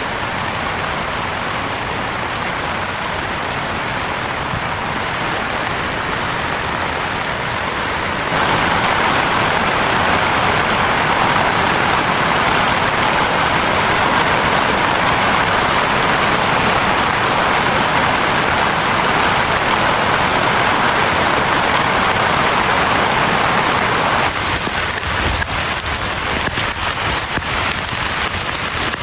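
Heavy rain falling steadily. About eight seconds in it turns abruptly louder and denser. Later it thins to a patchier patter with separate drops ticking.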